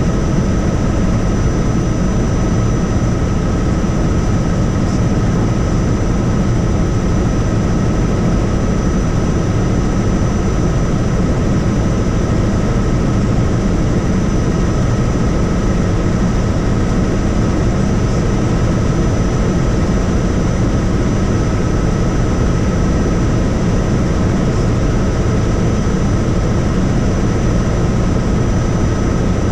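Helicopter in steady flight: a continuous dense rotor and engine rumble with a steady high whine over it, unchanging throughout.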